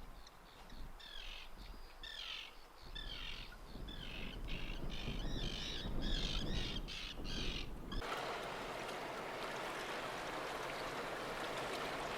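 Birds calling over and over with harsh cawing calls for about eight seconds; then the sound cuts suddenly to a steady rushing noise.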